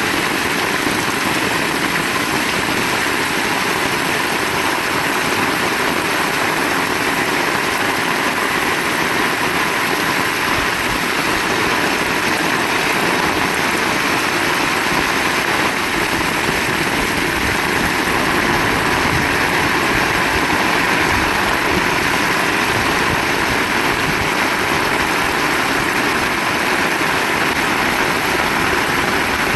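Heavy rain pouring steadily, a loud unbroken hiss.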